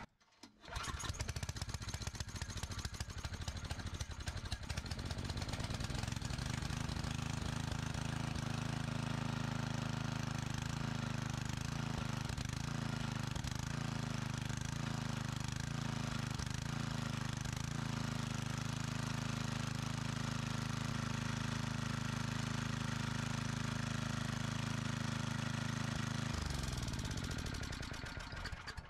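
Small single-cylinder engine of an old portable generator running steadily after being pull-started on choke, with a brief rhythmic wavering in its speed partway through. Near the end it is shut off and winds down, falling in pitch.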